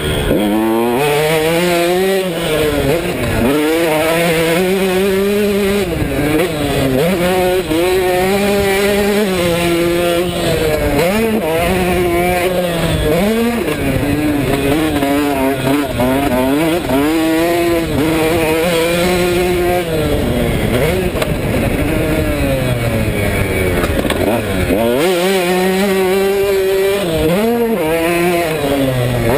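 KTM 150SX's two-stroke single-cylinder engine being ridden, revving up and down again and again as the throttle opens and closes and the gears change, its pitch rising and falling every second or two without pause.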